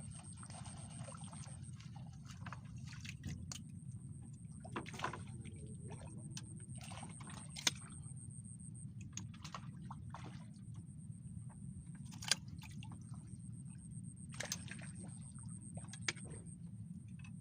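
Water sloshing and splashing, with scattered small clicks and knocks over a steady low rumble and a constant thin high-pitched whine.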